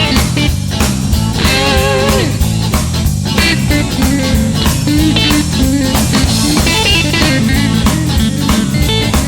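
Blues band playing an instrumental break: a lead guitar line with bent, wavering notes over a steady drum beat and bass.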